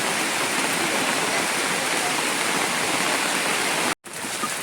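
Heavy rain pouring steadily. Near the end the sound cuts out for an instant and comes back a little quieter, with single drops heard striking a surface.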